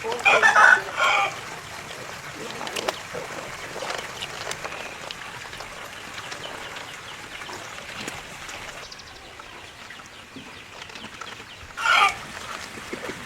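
A rooster calling: a loud two-part crow in the first second and a shorter call about twelve seconds in.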